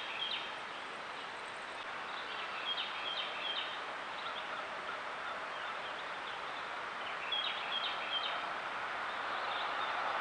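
Wild birds calling, short high notes in quick groups of three, over a steady hiss of woodland background.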